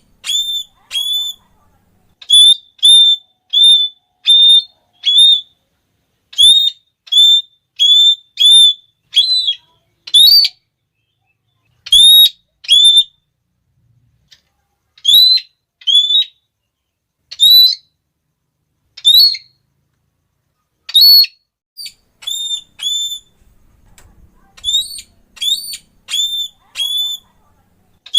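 Red-cheeked parrot calling: a loud, shrill series of short 'klee' notes, about two a second, repeated in runs of several with brief pauses between runs.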